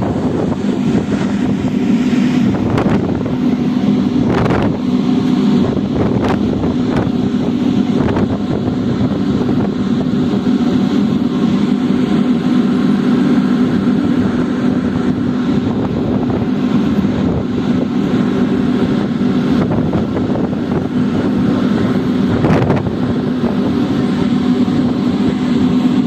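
Ferry engine running steadily with a low hum, with wind on the microphone.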